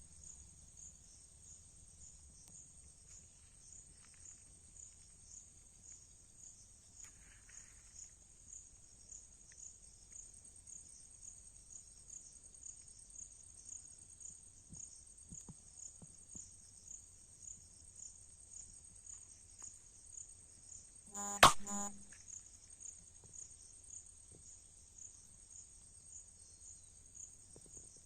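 Insect chirping, high-pitched and steady, about two chirps a second. One sharp knock about two-thirds of the way through is the loudest sound.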